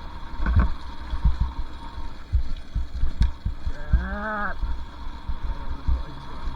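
Wind rumble and irregular low thumps on the microphone during a two-stroke dirt bike trail ride, with one brief rising-then-falling tone about four seconds in.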